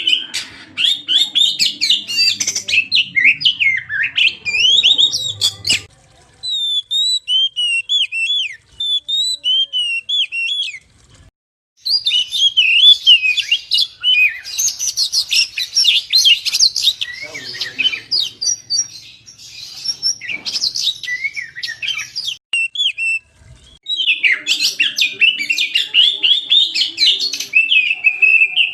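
Oriental magpie-robin (kacer) singing a fast, varied song of whistled and chirping notes that glide up and down. The song comes in long phrases with a few brief pauses.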